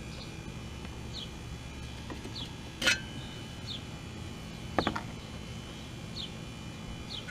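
A bird calling repeatedly, a short falling chirp about once a second, over a steady low hum. Two sharp knocks about three and five seconds in.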